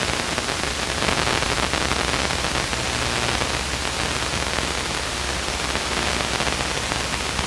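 Steady, even hiss of a Luscombe light airplane's cabin in flight, the engine and airflow heard through the headset intercom as static-like noise, with a steady low hum underneath.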